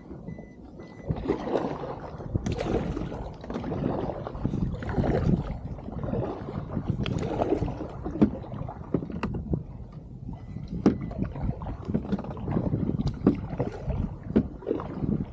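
Water splashing and lapping against a small kayak or boat hull in uneven surges about once a second, with occasional sharp knocks.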